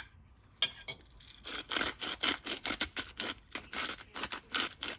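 A run of quick scraping strokes, about two or three a second, starting about half a second in.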